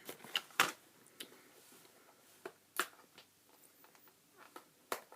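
A few scattered crunches and clicks, about five over the few seconds, from chewing a crisp biscuit stick of cookies and cream Pocky.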